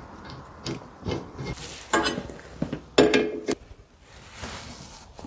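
Scattered light metallic clinks and knocks from hydraulic hoses and their steel fittings being handled during assembly, with a brief ringing clink about three seconds in.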